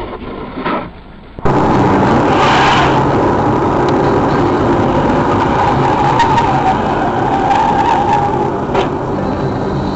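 A car's tyres skidding in a long continuous skid with vehicle noise. It starts suddenly about a second and a half in, after a cut from a quieter car recording.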